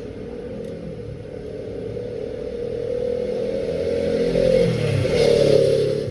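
A 16 kg washing machine running, its motor and drum sound building up to a peak about five seconds in, then easing off.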